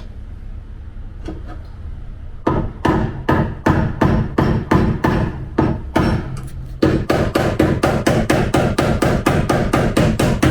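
Panel-beating hammer striking dented steel car body sheet metal, sharp metallic blows with a short ring. A low steady hum comes first; the blows start about two and a half seconds in at two or three a second and quicken to about four a second near the end.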